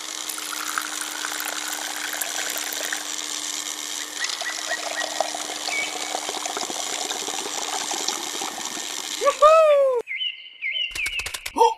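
Liquid trickling steadily from a miniature juice machine into a small glass, with a low steady hum underneath and a few faint chirps. About nine and a half seconds in comes a short loud gliding, voice-like sound, then a high steady beep with a quick run of clicks near the end.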